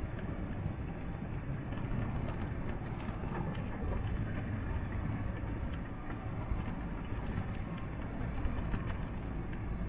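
Truck engine running, heard from inside the cab as a steady low rumble.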